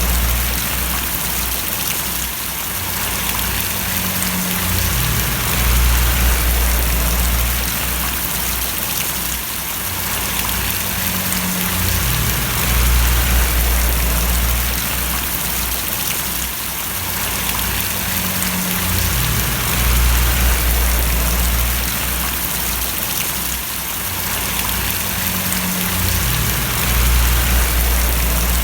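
Steady rain falling and splashing, an even hiss, with a low rumble underneath that swells and fades about every seven seconds.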